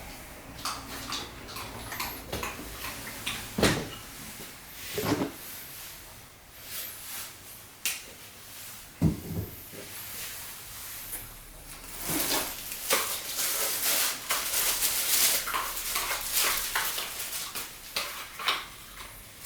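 Shark Rocket vacuum parts and their packaging being handled: scattered plastic knocks and clacks, and a stretch of rustling packaging in the second half.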